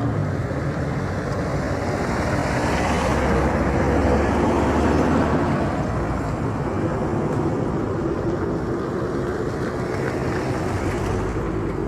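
Motor vehicle travelling along a road: a steady rush of road and wind noise with a low engine hum underneath.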